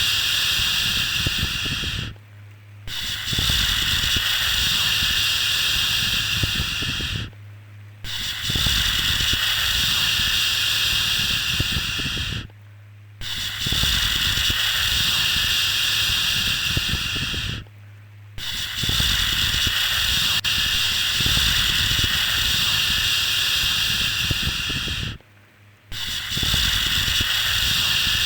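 A long, steady 'shhh' shushing sound for calming a baby, repeated over and over: each shush lasts about five seconds, with a brief pause between them.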